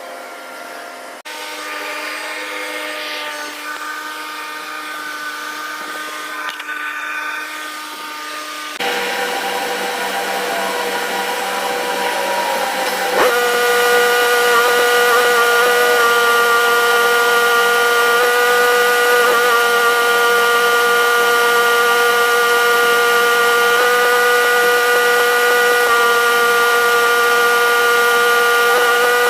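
A machine running with a steady whine of several tones. It shifts to a higher, louder pitch about nine seconds in, glides up briefly around thirteen seconds, then holds steady.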